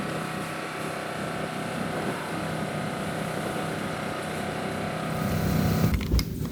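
A motor-driven machine running steadily at a constant pitch, then dropping away about six seconds in, followed by a low thump and a couple of sharp clicks.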